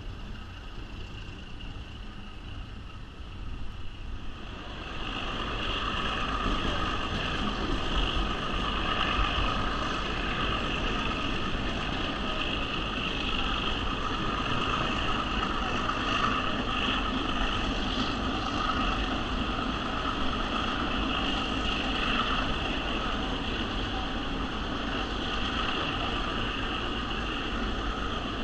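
Passenger train running along the rails, heard from an open-air car: a steady rumble and ringing wheel-on-rail noise with wind, getting louder about five seconds in and then holding steady as the train climbs a steep upgrade.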